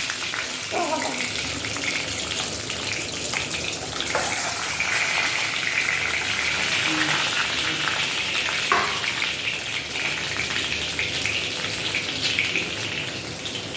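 Boiled eggs frying in hot oil in a pan: a steady sizzle.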